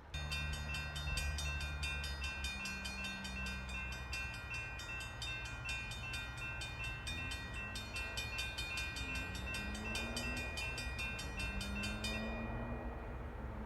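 Railroad grade-crossing bell ringing rapidly and evenly over the low rumble of an approaching diesel freight train. The bell stops about 12 seconds in while the rumble continues.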